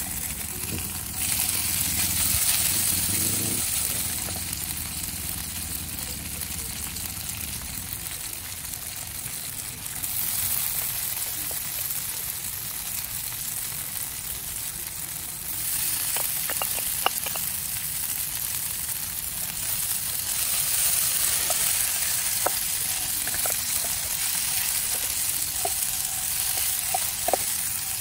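Marinated paneer cubes sizzling in hot oil in a nonstick frying pan, the sizzle swelling each time another handful is dropped in. A few light clicks in the second half.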